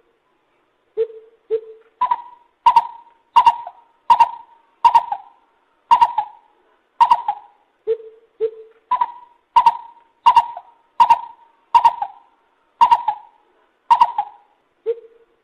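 Lesser coucal calling: a steady series of short hoots, about one and a half a second. Most are on one higher note, with pairs of deeper notes near the start and in the middle and a single deeper one near the end.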